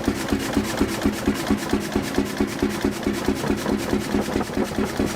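1936 Storebro hot bulb engine running with an even, steady beat of about four strokes a second.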